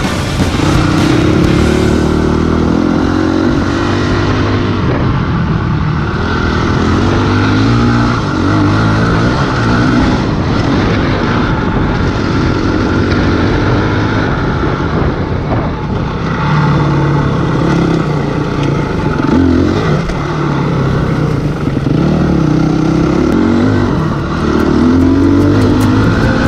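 Honda CRF250X dirt bike's single-cylinder four-stroke engine being ridden, its pitch rising and falling again and again as the throttle is worked through the gears, under a rushing noise of wind.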